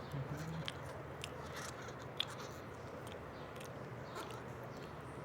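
Scattered small clicks and crunches, the sharpest about two seconds in, over a steady low hum.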